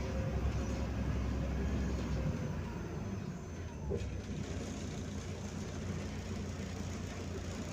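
Running noise of a MAZ-105 articulated city bus under way, heard from inside: a low engine and road rumble, heavier for the first couple of seconds and then easing, with a single sharp click about four seconds in.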